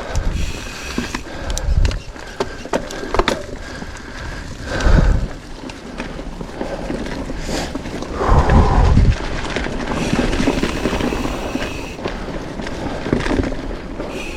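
Mountain bike riding along a dirt forest trail: tyres rolling on the ground, with irregular clicks and knocks as the bike rattles over bumps, and a few heavier low rumbles partway through.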